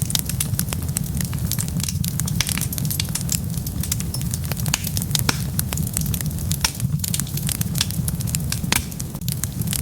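Wood fire burning, with dense, irregular crackles and pops over a steady low rumble of flames.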